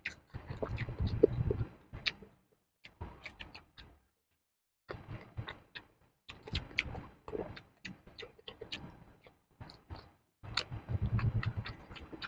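Close-miked chewing of crisp raw vegetables: bursts of crunching and wet mouth clicks, broken by short pauses, one of about a second a little after the middle.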